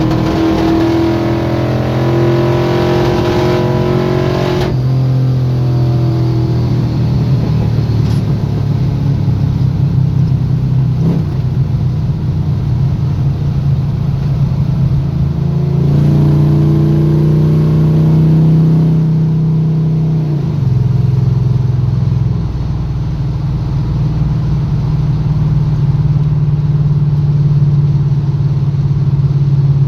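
Squarebody Chevy drag truck's engine running as the truck is driven, its pitch holding for stretches and stepping up and down several times.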